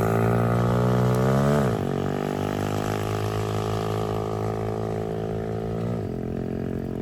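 Small 140cc dirt bike engine being ridden. The revs climb, fall sharply about 1.7 s in, climb slowly again and fall sharply once more near the end, getting a little quieter.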